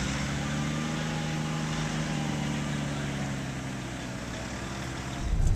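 Car engine running with a steady hum over a haze of road and tyre noise, easing down slightly near the end.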